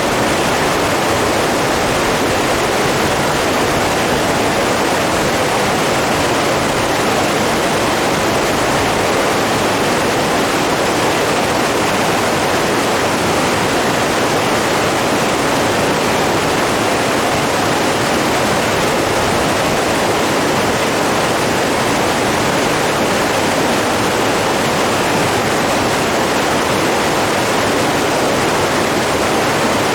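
Steady rushing of running water, an even unbroken roar with no gusts or breaks.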